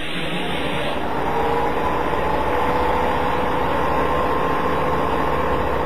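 Hitachi Electric Railway train at the station: a steady mechanical hum, with a steady whine coming in about a second in.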